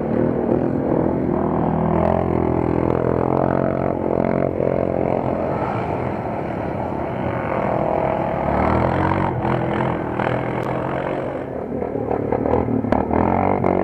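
Several quad bike engines running and revving together, their pitches rising and falling against each other.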